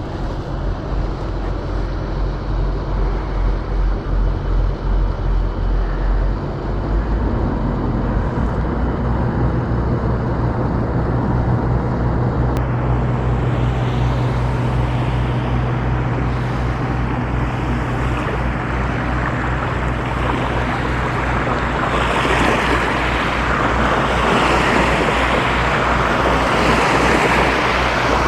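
Motorcycle engine running while riding, with wind rushing over the microphone. The engine note steps up about seven seconds in, and the wind grows louder in the last few seconds.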